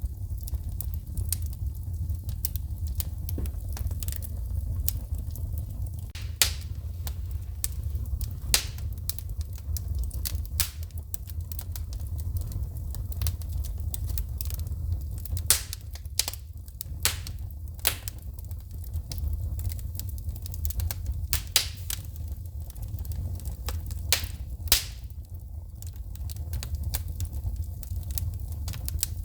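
Wood fire burning with a steady low rumble, crackling and popping irregularly as the wood throws sparks, with a handful of louder sharp snaps scattered through.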